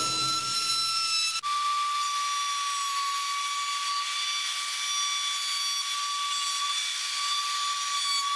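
Table-mounted router spinning a bearing-guided edge bit, a steady high whine, while a piece of 2x4 softwood is fed past it to profile its edge. The pitch steps down a little about a second and a half in, then holds steady.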